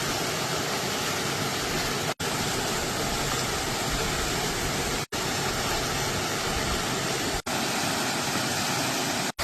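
Waterfall rushing: a steady, even noise of falling water, broken by four very short dropouts.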